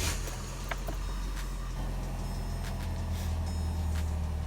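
Chevy Malibu engine catching and then idling steadily, with its muffler now held by freshly replaced muffler hangers.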